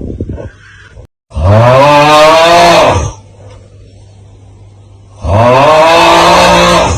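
The 'Aauuggh' TikTok meme sound: a loud, drawn-out yell in a low voice, heard twice, each about two seconds long, its pitch rising at the start and dropping away at the end. A low hum and a short crackle lie between the yells.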